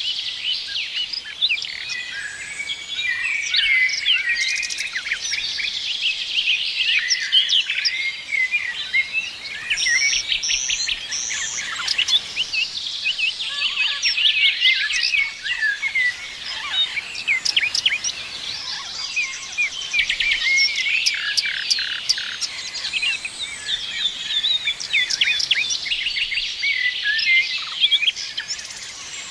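Many songbirds singing and chirping together, a dense overlapping chorus of high chirps, whistles and fast trills.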